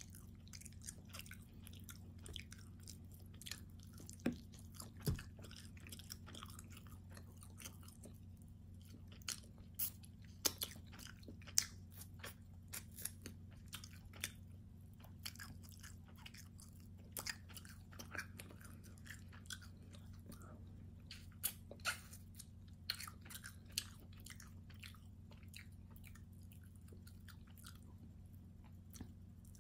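Close-up chewing of a meat lover's calzone: scattered sharp mouth clicks, smacks and crunches over a steady low hum.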